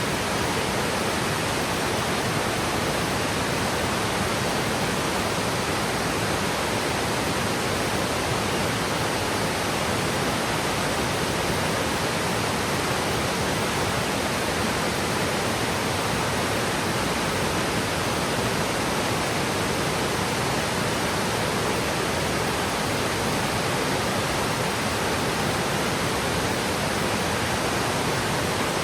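Yudaki waterfall, a 70 m cascade sliding down a slope of lava rock: a steady, unbroken rush of falling water that holds an even level throughout.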